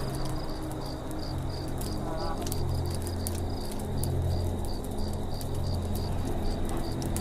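Campfire crackling with sharp scattered pops, under the steady pulsing chirp of crickets, about four chirps a second. A short bird call comes about two seconds in.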